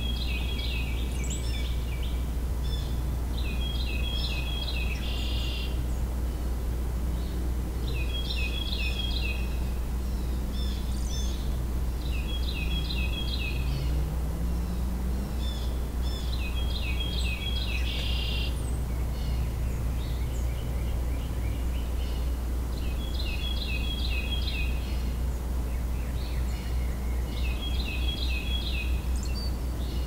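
A songbird repeating a short, high song phrase about seven times, each a quick run of falling notes. Under it runs a steady low rumble.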